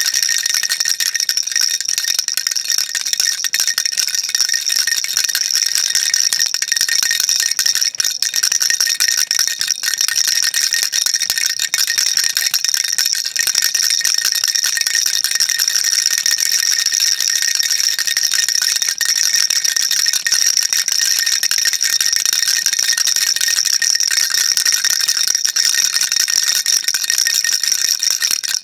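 Baby rattle shaken continuously: a dense, even patter of small beads clicking inside a hard shell, bright and high-pitched with no pauses.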